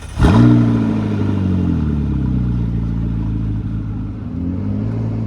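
A vehicle engine fires up about a quarter second in, flares briefly in revs and settles into a steady idle.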